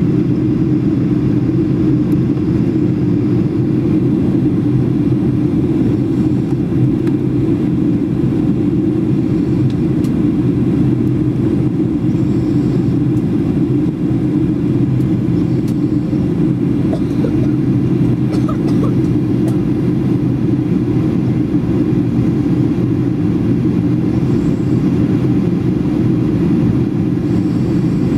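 Steady low drone of engine and airflow noise inside the cabin of a Ryanair Boeing 737 in flight, with a few faint clicks about two-thirds of the way through.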